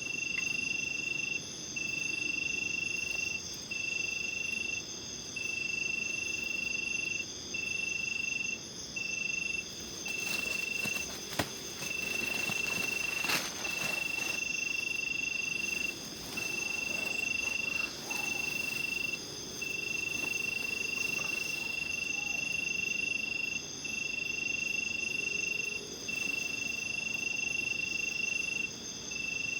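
Night-time chorus of crickets and other insects: one loud cricket trills in long bursts of one to two seconds with short breaks, over several unbroken higher-pitched insect trills. A few faint knocks come around the middle.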